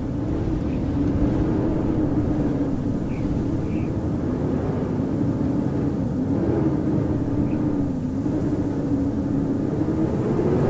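Howling winter wind: a steady rushing with a low moaning tone that wavers slowly up and down.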